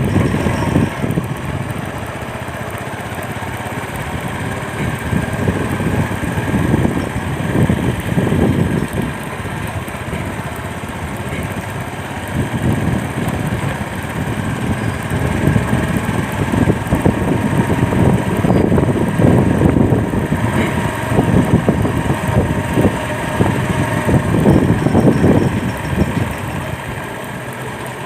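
Motorcycle engine running while riding along, its sound swelling and easing, with road noise.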